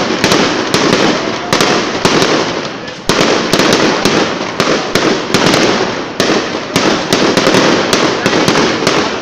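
Aerial fireworks display: shells bursting overhead in a fast run of sharp bangs, about two a second, with dense noise between them.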